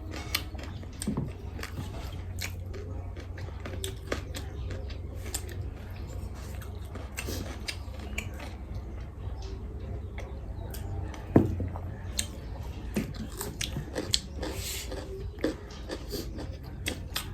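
Close-miked chewing and eating of chicken curry and rice, with irregular small clicks and taps and one sharper click about eleven seconds in, over a steady low hum.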